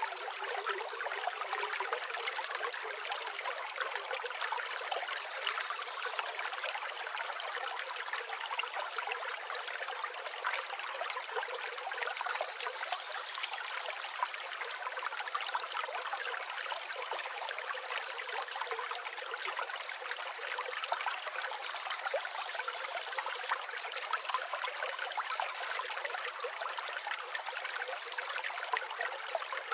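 Flowing river water, a steady even rush with no low rumble. A faint high bird chirp sounds twice, about halfway through and again near the end.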